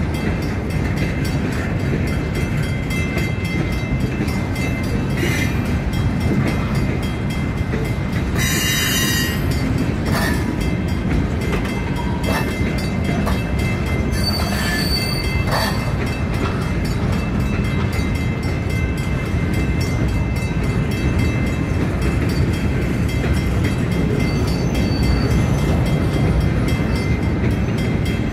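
CN freight train rolling past with a steady heavy rumble of wheels on rail. Short high-pitched screeches come about nine and fifteen seconds in.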